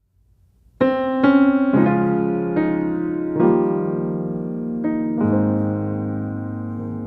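Background piano music: gentle notes and chords, each struck and left to fade, starting about a second in after a short silence.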